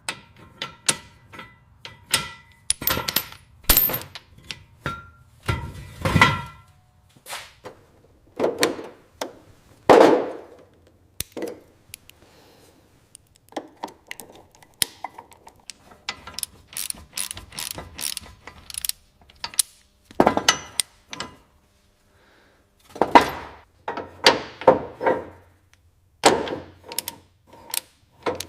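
Irregular clicks, knocks and short metallic rattles of hand work on a car, with a few brief pauses.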